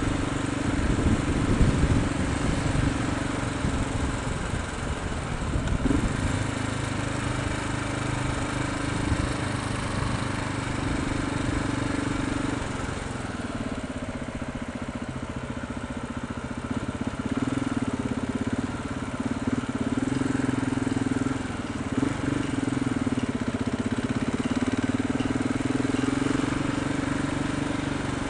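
Motorcycle engine running while riding, steady and continuous, with road and wind rumble underneath. The engine note dips briefly a few times.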